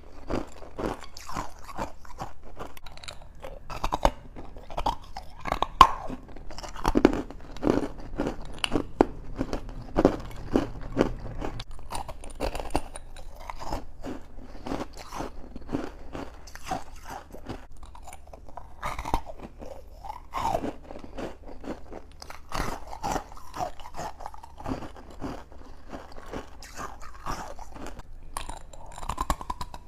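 A person biting and chewing freezer frost soaked in passionfruit juice, close to the microphone: an unbroken run of irregular crunches, several a second.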